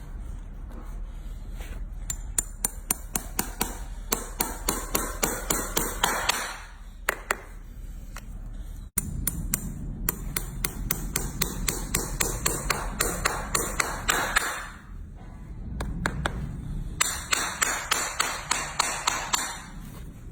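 A hammer tapping in quick, even light blows, about three a second, with a metallic ping. The blows come in three runs, each stopping abruptly, with short pauses between them.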